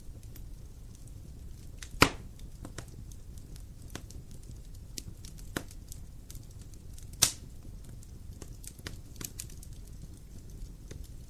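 Wood fire crackling, with a steady low rumble of burning and scattered small snaps. Two much louder sharp pops come about two seconds in and again about seven seconds in.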